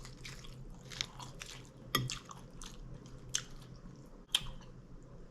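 A person chewing and biting mouthfuls of taco salad, a string of short crunches and wet mouth clicks.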